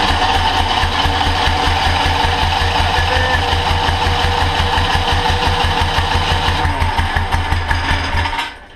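Monster trike engine, on a freshly rebuilt carburetor, running with an even, rapid firing beat, then cutting out about eight seconds in. The carburetor had just been flooding, and the owner suspects the air screw is set wrong.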